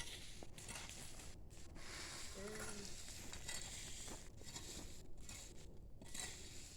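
Faint crackling and hissing of burning brush and dry vegetation.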